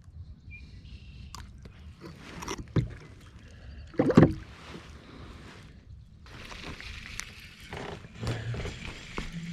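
Kayak on the water: water sloshing against the hull, with a few knocks on the boat. The loudest knock comes about four seconds in.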